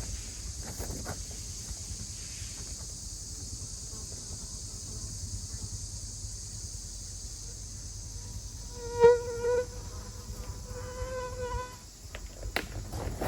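Outdoor insect chorus, a steady high-pitched chirring, with a short pitched buzz about nine seconds in and again about eleven seconds in.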